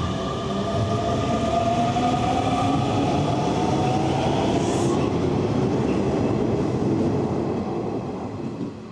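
Hanshin Railway electric train running along the platform, its motors giving a whine that rises steadily in pitch as the train gathers speed over a low rumble of wheels on rail. The sound fades away near the end.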